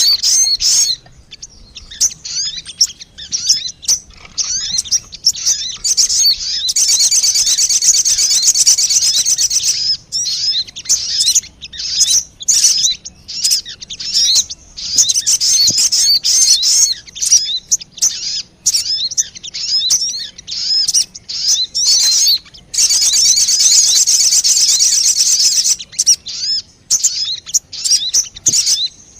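Lure-call recording of sogon birds: high, rapid chirping and twittering with runs of fast trilled notes. Two long unbroken trills come about a third of the way in and again near the end, with short pauses between phrases.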